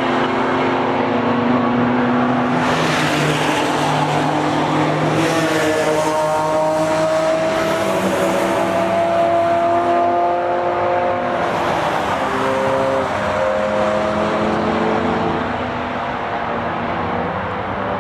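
Several cars passing one after another on a race circuit, their engines revving hard under acceleration and overlapping. One engine tone rises steadily for several seconds, then breaks at a gearchange and climbs again.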